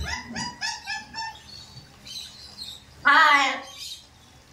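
Amazon parrot calling: a quick run of short repeated calls, about four a second, that dies away after a second or so, then one loud, harsh call with a falling pitch about three seconds in.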